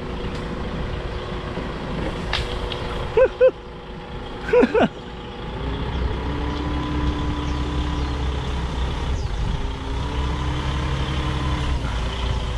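Container truck's diesel engine running at low speed, with the engine note growing louder about six seconds in as it takes more load. Two pairs of short sharp tones sound a little after three and a little after four and a half seconds.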